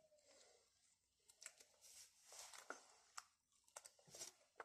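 Faint, scattered clicks and soft crunches of a person picking up fresh salad leaves and chewing them.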